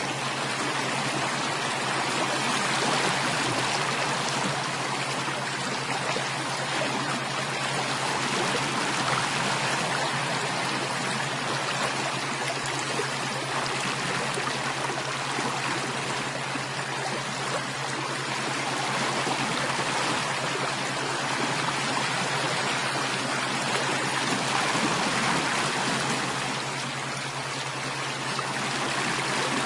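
Flowing stream water running steadily, with a low steady hum underneath.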